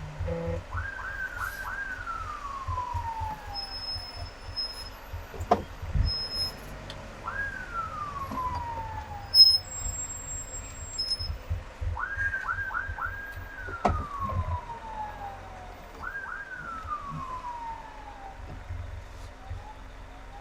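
Emergency vehicle siren sounding over low traffic rumble. It goes through four cycles: each rises quickly to a high pitch, gives a few quick yelps, then slides slowly down over about three seconds. A few sharp clicks come through, the loudest about nine seconds in.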